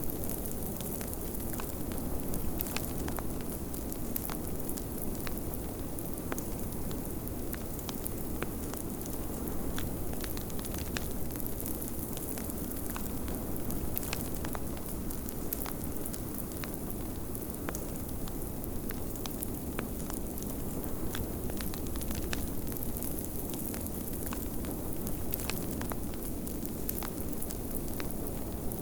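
Wood fire crackling, with frequent small irregular pops and snaps over a steady low rush of blizzard wind.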